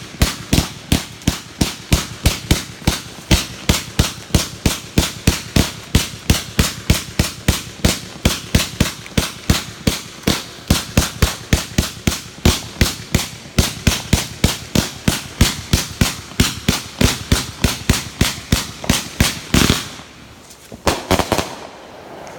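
Fireworks going off in a steady, rapid series of sharp bangs, about four a second, ending with a dense cluster of bangs and then a few last pops.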